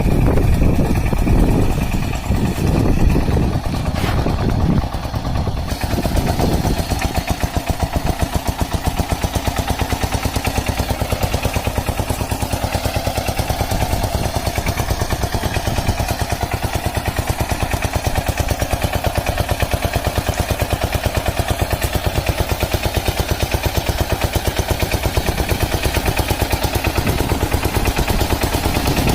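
Kamco KMB200 DI power tiller's single-cylinder diesel engine running with a rapid, even chugging. The first several seconds are uneven and louder in places, then it settles into steady firing about six seconds in.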